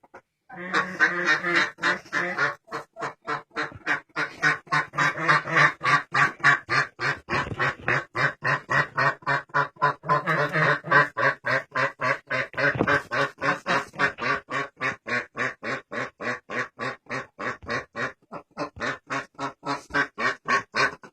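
Broody duck quacking over and over, about three to four quacks a second without a pause, agitated at being disturbed at her nest.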